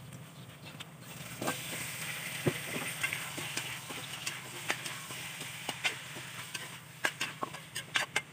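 Raw chicken feet going into a hot wok of garlic and onions frying in oil: the sizzle grows about a second in and keeps on, with scattered clicks and knocks against the pan, thickest near the end.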